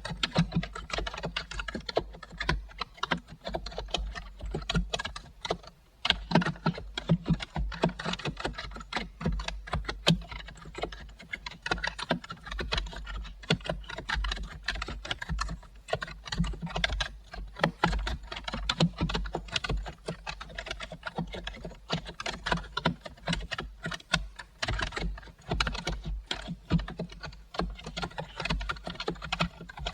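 Computer keyboard being typed on steadily: a fast, continuous run of key clicks, with a short pause about six seconds in.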